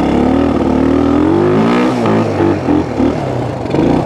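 1974 Honda XL175's single-cylinder four-stroke engine running under throttle while being ridden, steady at first, then revving up about a second and a half in and dropping back.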